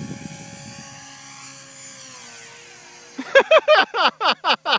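RC helicopter's motor and rotor whining steadily, with its pitch dropping about two seconds in. From about three seconds in, a person's voice breaks out in a quick run of short, loud bursts over it.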